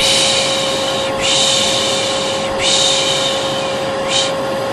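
Hair dryer running steadily, with a person's drawn-out 'shhh' shushing repeated about every second and a half, three long shushes and a short one; a shush-and-dryer white-noise track for calming a colicky baby.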